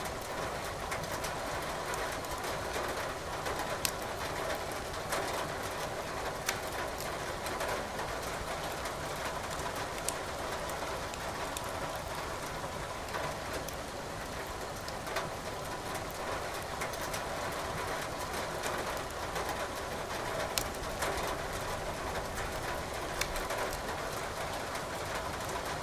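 Steady rain with wood crackling in a fireplace, sharp pops scattered irregularly every second or two.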